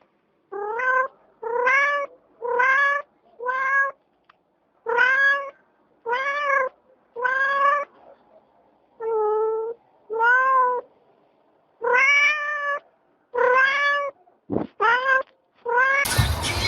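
Domestic cat meowing over and over, about a dozen separate meows of roughly half a second each, with short pauses between. In the last second it cuts to a different, noisier sound.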